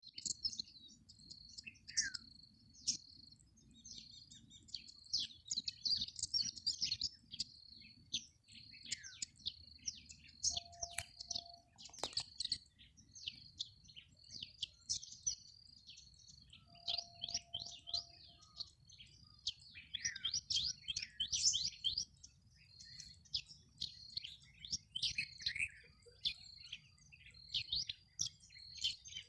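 Several birds chirping and calling together in a busy dawn-chorus-like mix of quick high chirps, with a high, thin note repeated over and over. Twice a lower, held call sounds briefly.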